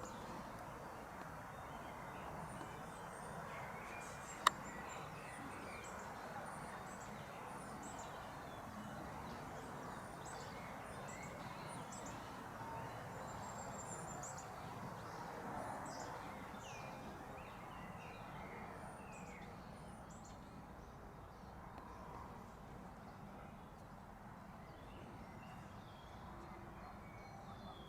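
Small songbirds chirping, many short high calls scattered throughout, over a steady background noise. A single sharp click about four and a half seconds in.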